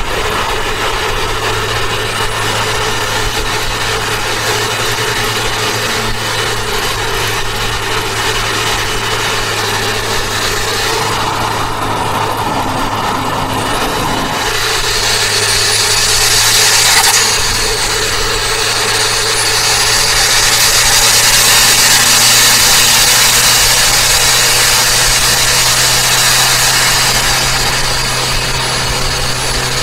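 Turbocharged Toyota Avanza driving at speed: a steady engine hum under road noise. About halfway through a high-pitched whine rises in pitch and holds as the sound grows louder, then eases off near the end.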